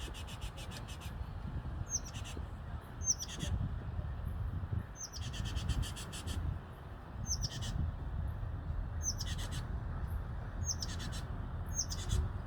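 A bird calling over and over, roughly every two seconds: each call is a short high chirp followed by a buzzy rattle. A steady low rumble runs underneath.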